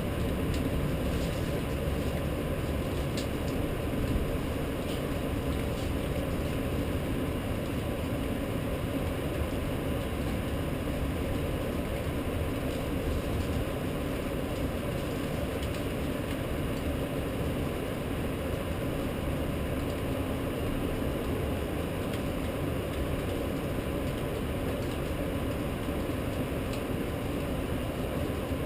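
Steady rumble and hiss of a rainstorm over a city, with a faint steady hum and a few light ticks in the first few seconds.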